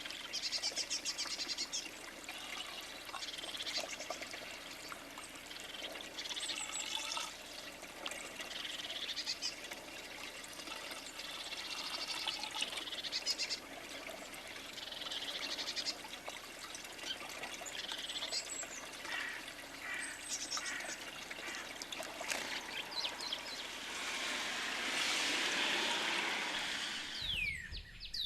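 Small songbirds chirping in repeated quick bursts over a steady hiss, typical of tree sparrows at a feeder. Near the end the hiss swells, then a few quick falling whistles come in.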